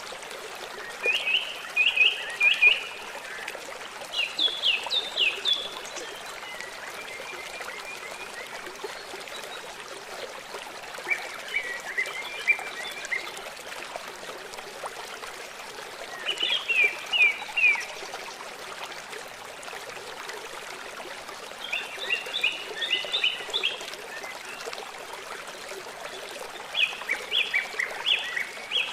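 Songbirds singing in short phrases of rapid repeated chirps, a phrase every four to five seconds, over the steady rush of running water.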